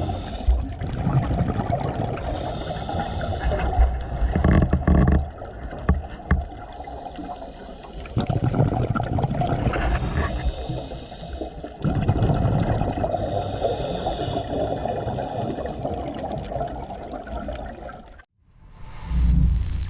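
Scuba diver breathing underwater through a regulator: exhaled bubbles gurgle and rumble in a rising and falling cycle every four to five seconds. Near the end the sound cuts off and a short low whoosh follows.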